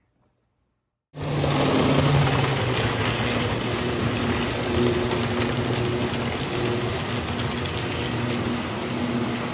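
Postwar Lionel O gauge toy train running on three-rail track: a steady rumble of wheels and motor with a faint hum, starting abruptly about a second in.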